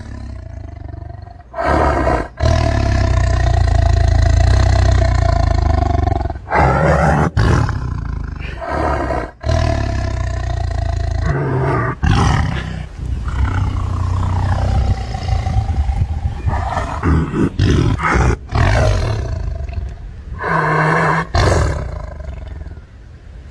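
Tiger roaring, loud: a run of long roars, one after another, with short breaks between them.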